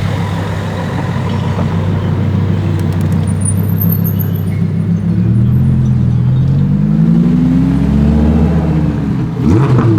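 Lamborghini supercar engine pulling away: a steady running note, then revs climb and fall over a few seconds, with a quick sharp rev near the end.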